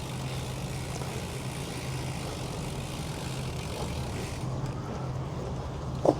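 Steady low hum of motor traffic, heard while cycling, with a high hiss over it that stops abruptly about four and a half seconds in.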